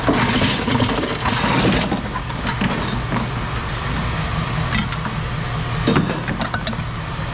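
An engine running steadily with a low rumble, with a few short knocks of metal on metal.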